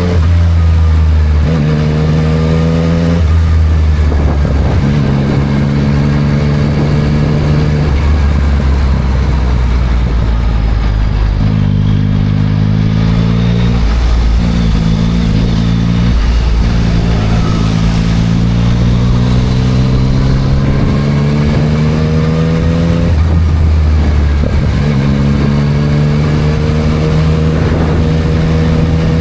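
2024 Yamaha MT-09 SP's three-cylinder engine through a Spark full aftermarket exhaust, pulling up through the gears: the pitch climbs several times, each climb cut by a quick gear change and drop, with a stretch of steadier cruising between.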